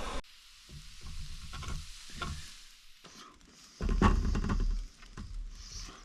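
Steak sizzling in a cast iron skillet, with scattered clicks and scrapes from a utensil working the pan. A loud low rumble, like a bump or wind on the microphone, comes about four seconds in.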